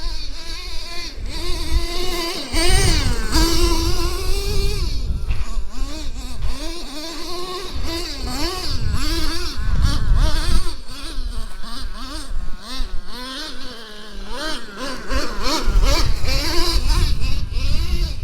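Traxxas T-Maxx 3.3's two-stroke nitro engine revving up and down over and over as the truck is driven, its pitch rising and falling about once a second. A low rumble comes and goes underneath.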